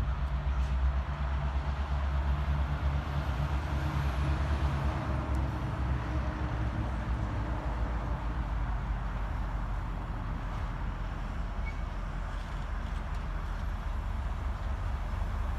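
Freight train running by, a steady low rumble with a diesel engine hum that eases slightly about halfway through.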